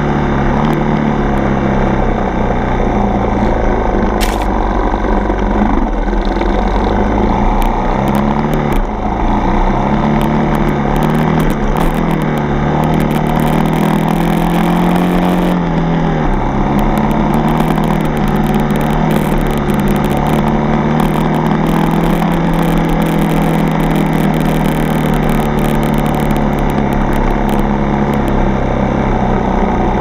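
Yamaha TT-R 230 dirt bike's single-cylinder four-stroke engine running under way on a trail ride. The engine pitch rises and falls as the throttle changes, most noticeably about six to nine seconds in and again around halfway.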